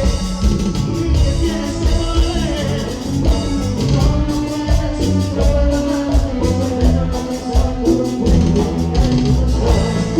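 A band playing Latin American dance music with drums, bass and sustained keyboard lines over a steady, quick beat.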